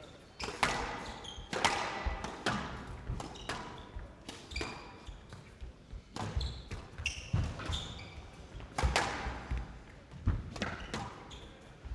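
Squash rally in a large hall: sharp cracks of the ball off rackets and walls, one or two a second, with short high squeaks of players' shoes on the court floor.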